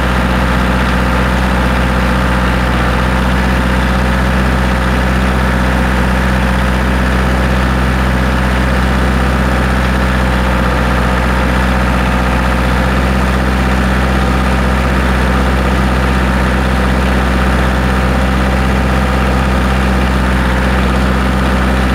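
Kioti DK40 tractor's diesel engine running steadily at a constant speed while towing a truck.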